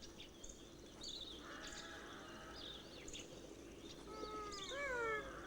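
Ring-tailed lemur calling: a wavering, bleat-like call that rises briefly and then falls in pitch about four seconds in. It sits over natural ambience with small birds chirping.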